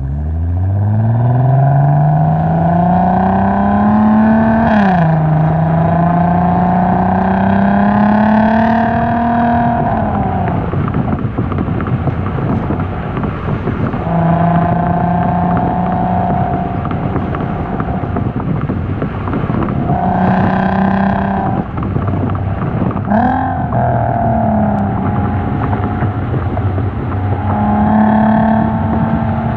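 Volkswagen MkV R32's 3.2-litre VR6 engine heard through its slightly modified exhaust (Tampa mod with a full Magnaflow muffler). The revs climb for about four seconds, drop at a gearchange about five seconds in, and climb again. After about ten seconds the throttle comes off, and the engine then holds steadier revs with brief rises and another quick drop in pitch a little after twenty seconds.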